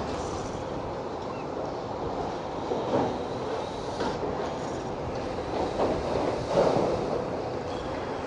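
Demolition excavator at work: a steady mechanical rumble, broken by several short crunches of masonry being broken in the middle and later part.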